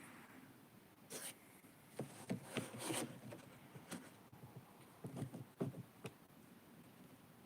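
Faint, scattered scraping, rubbing and light clicks from small parts and tools being handled during plastic model work.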